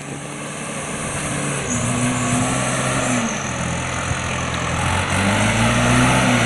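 Truck engine working under load, its pitch climbing and easing off twice, over a steady rushing noise.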